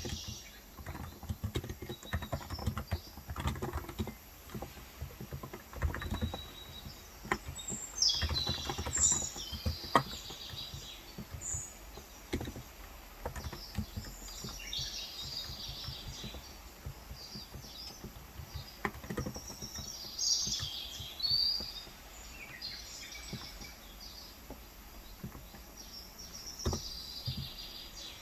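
Irregular keystrokes on a Cox Endeavor electrostatic-capacitive tenkeyless keyboard with light 35 g switches, with birds chirping in several short bursts through it.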